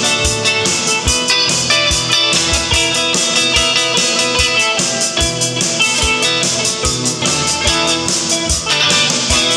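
Live acoustic band playing an instrumental passage: strummed and picked guitar, mandolin and three-string cigar box guitar over a drum kit keeping a steady beat of about two low drum strokes a second.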